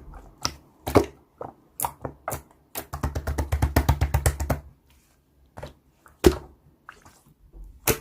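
Slime being pressed and poked by hand, making scattered sharp clicks and pops, with a quick run of about a dozen crackling clicks a little past the middle.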